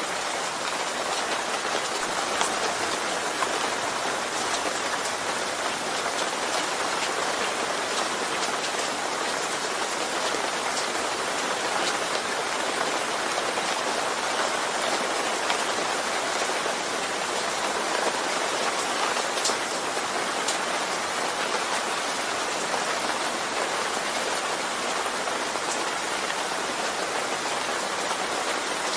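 Steady rain falling, an even hiss of drops with scattered individual drop ticks and no change in intensity.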